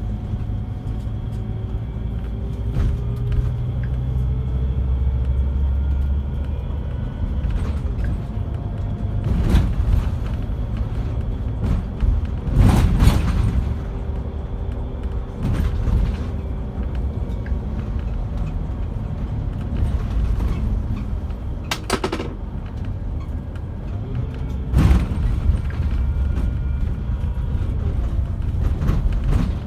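Interior of a Scania K360 coach on the move: steady engine and road rumble, with a gliding drivetrain whine as the revs change. Several sharp knocks and rattles come from the body over bumps.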